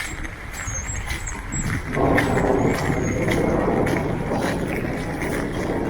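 A large vehicle passing close by on the street. Its engine and tyre noise swells suddenly about two seconds in and stays loud.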